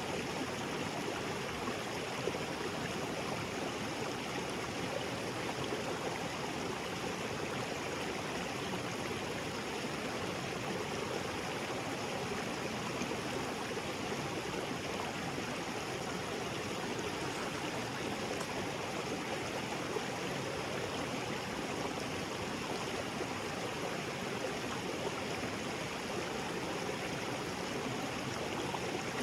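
Small waterfall splashing into a rocky jungle creek, a steady rushing of water with no change.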